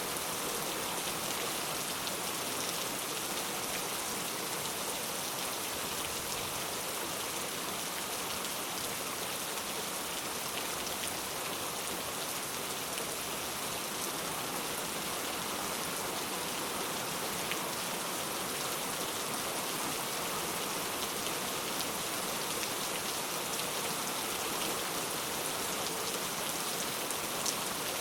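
Steady rain falling, an even hiss of many drops with a few separate drop ticks standing out now and then.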